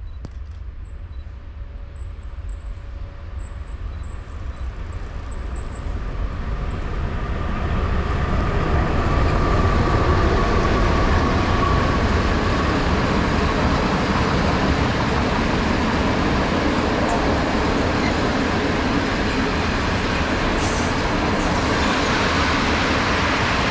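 Twin-section ET42 electric locomotive hauling a freight train of coal gondolas. It draws near, growing louder over the first eight seconds or so, with a whine as it passes, then the steady rumble and clatter of the wagons rolling past on the rails.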